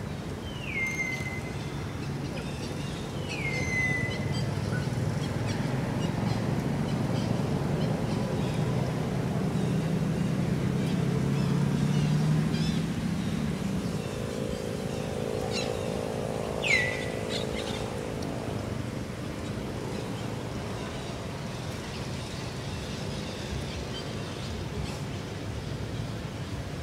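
Three short downward-sliding bird chirps, the last and loudest about two-thirds through, over a steady low hum of a distant engine that swells and fades in the middle.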